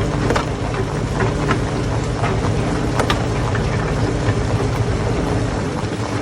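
Hammer stone crusher running steadily, with irregular sharp knocks of rock throughout, the strongest about three seconds in.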